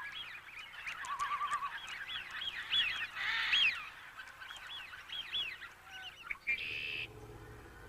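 A wetland chorus of waterfowl calling, with many short honking calls overlapping and a fast trill about a second in.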